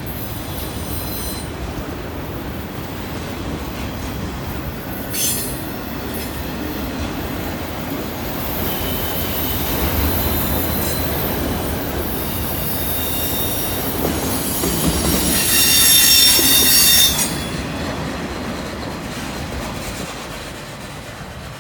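Freight cars of a long CN freight train rolling over a curve, the steel wheels squealing against the rail in high-pitched bouts that come and go, loudest about three quarters of the way through. The rolling noise then fades.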